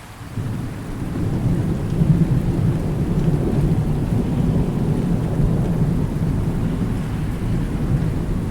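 Rolling thunder over steady rain: a deep rumble swells after a brief dip at the start, peaks about two seconds in and keeps rolling under the hiss of the rain.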